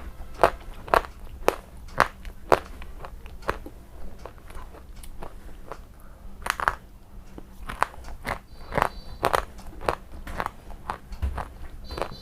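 Crunchy food being bitten and chewed close to the microphone: a string of sharp, crisp crunches at an uneven pace, roughly two a second, loudest in the first few seconds.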